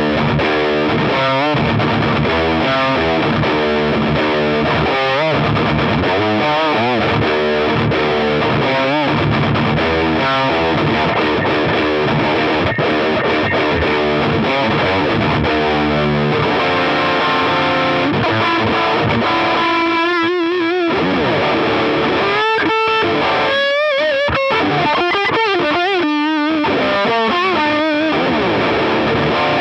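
Distorted electric guitar from a dual-humbucker Telecaster-style guitar. It plays rhythmic chugging chords for about the first half, then switches to sustained single lead notes with vibrato and bends.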